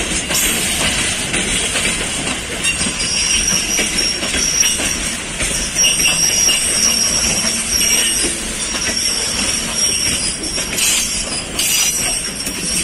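Open-top freight wagons rolling slowly past on the rails during shunting, their wheels squealing with a high thin tone that comes and goes.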